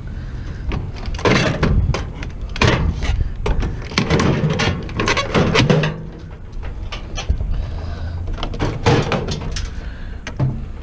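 Irregular metallic clanks, rattles and scraping from a microwave oven's sheet-metal case and parts being taken apart by hand to get at the transformer.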